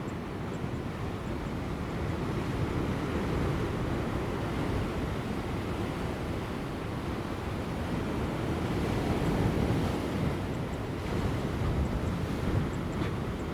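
Large ocean waves breaking on offshore rocks: a continuous deep rush of surf that swells and eases, loudest about two-thirds through, with light wind on the microphone.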